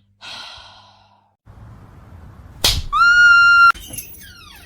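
A sharp crash, then a loud, high, steady shriek lasting under a second that cuts off abruptly, followed by a few short falling squeals.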